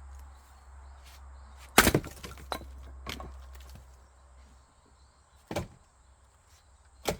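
Hand-split firewood: an axe strikes a log hard about two seconds in, followed by smaller cracks of the wood splitting and pieces knocking, with further single strikes later and near the end.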